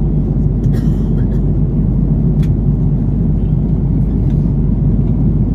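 Steady low rumble of engine and airflow noise inside an Airbus A330 cabin in flight, with a few faint clicks.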